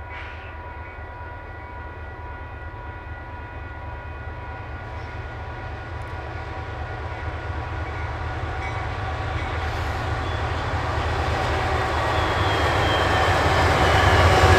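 Canadian Pacific freight train's diesel locomotives approaching, the low engine rumble growing steadily louder as the train nears and starts to pass.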